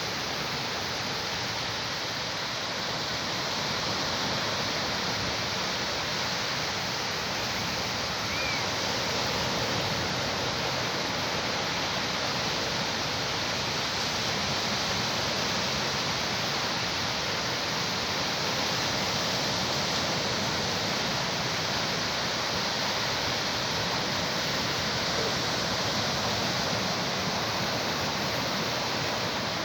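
Sea surf washing steadily onto the beach, a continuous rushing wash that swells gently over many seconds.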